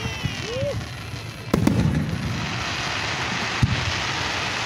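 Fireworks display: a loud sharp bang from a shell bursting about a second and a half in, and a weaker bang a couple of seconds later, over a steady rumble and hiss from the show.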